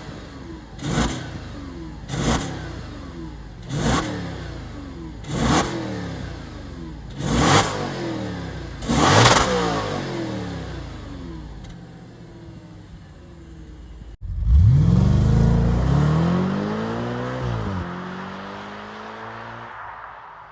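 Audi RS5 exhaust with opened-up flap silencers, revved at standstill: seven quick throttle blips about every one and a half seconds, each falling straight back. After a sudden break comes one longer rev that rises, drops and settles toward idle, fading near the end.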